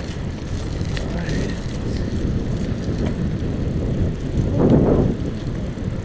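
Wind rumbling over the microphone of a camera on a moving bicycle, with a louder whoosh rising and falling about three-quarters of the way through.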